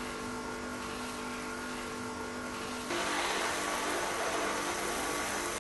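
High-pressure cleaner running with a steady mechanical hum, joined by a louder hiss of spraying water about three seconds in; it cuts off suddenly.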